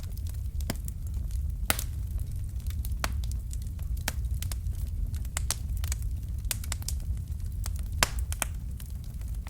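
Fire in a fireplace crackling: irregular sharp pops and snaps, a couple of them louder, over a steady low rumble.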